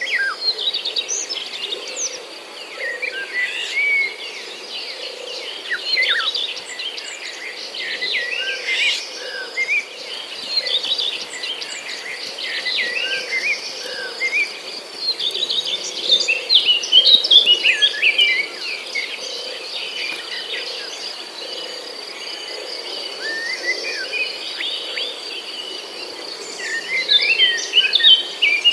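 Many birds chirping and calling in quick, overlapping bursts over a steady, high-pitched insect drone.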